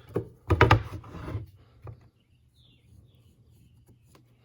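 Pencil scraping on a wooden board and the board being handled: short rubbing strokes and light wooden knocks in the first second and a half, one more tick, then quiet.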